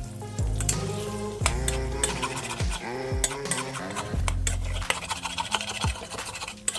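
Background music with heavy bass and falling sweeps, over a spatula stirring and scraping in a pan of frying egg fried rice, with food sizzling and sharp clicks of metal on the pan.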